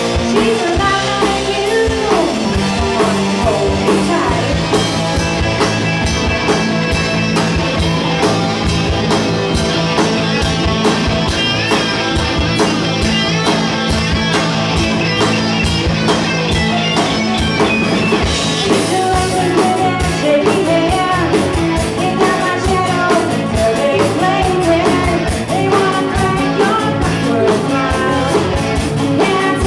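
Rock band playing live: a singer over electric guitar and a steady drumbeat, with the cymbals growing louder about two-thirds of the way through.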